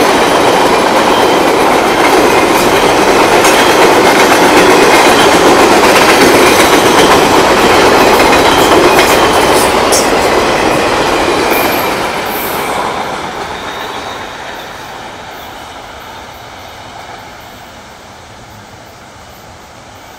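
Norfolk Southern freight train of Triple Crown RoadRailer trailers rolling past at close range: a loud, steady noise of steel wheels on the rails with scattered sharp clicks. It fades away from about twelve seconds in as the last cars go by.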